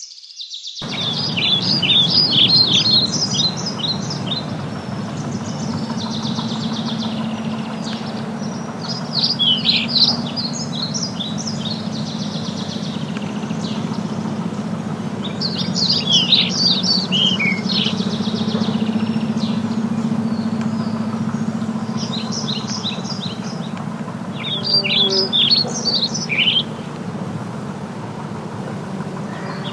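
A songbird singing about five separate songs of quick, high notes, several seconds apart, over a steady low rumble.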